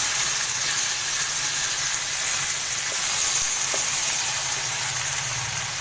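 Marinated chicken pieces sizzling steadily as they fry in a pan.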